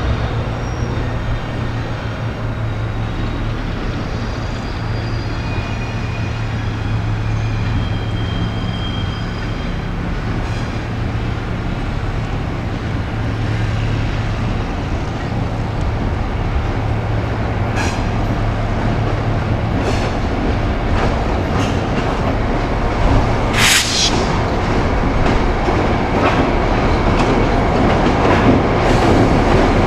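Train rolling along the rails with a steady low diesel drone, wheels clicking over rail joints a few times in the second half, including one sharp loud clack about two-thirds of the way in. The rolling noise grows louder toward the end.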